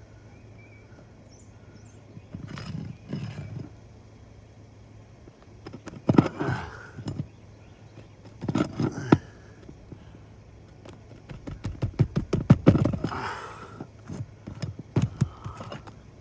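Asphalt roof shingles being pried at to free their nails: short bursts of scraping and crackling, with a run of quick clicks about twelve seconds in, over a steady low hum.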